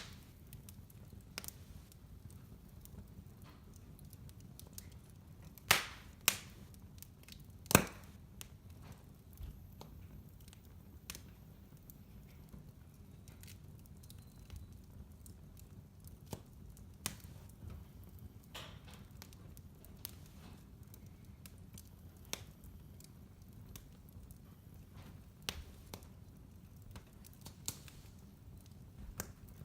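Fireplace fire crackling: scattered sharp snaps and pops over a low steady rumble, with a few louder pops between about six and eight seconds in.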